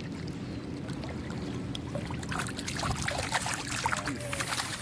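Water splashing and trickling in short irregular bursts from about two seconds in, over a steady low hum.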